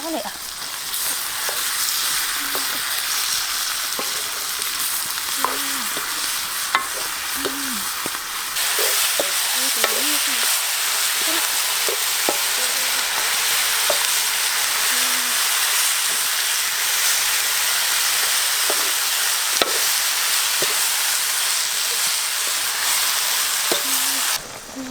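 Food sizzling as it fries in hot oil in a pan: a steady hiss that grows louder about eight and a half seconds in and drops away just before the end, with occasional light clicks.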